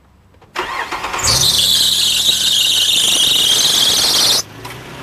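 2004 Nissan Xterra engine cranking and catching, then a loud high-pitched belt squeal for about three seconds that cuts off suddenly as the engine settles to idle. The squeal is taken for a loose fan belt.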